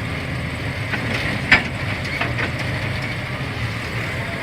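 A CNG garbage truck's engine running steadily, with a few sharp knocks over it, the loudest about a second and a half in.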